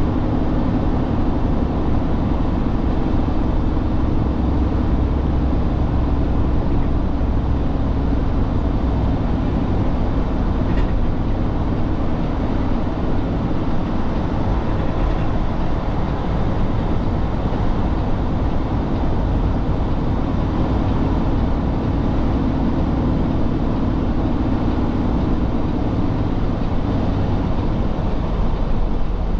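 Heavy truck's diesel engine running with road noise: a steady low drone with no breaks.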